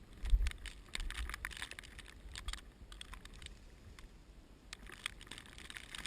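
Irregular rapid clicking and crackling throughout, with a short low rumble of wind buffeting the microphone about a third of a second in.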